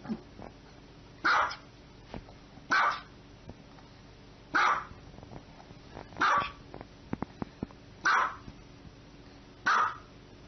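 Small white long-haired dog barking six times, single sharp barks evenly spaced about every second and a half.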